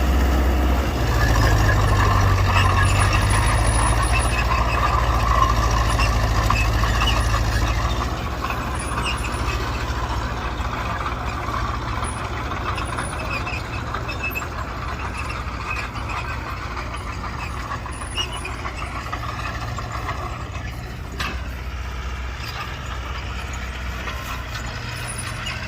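Heavy diesel engine of earthmoving machinery running steadily, louder for the first several seconds, then settling to a lower, quieter run.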